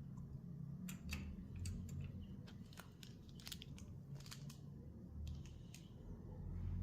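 Copperplate calligraphy pen nib scratching and tapping on paper in faint, irregular clicks, over a low steady hum.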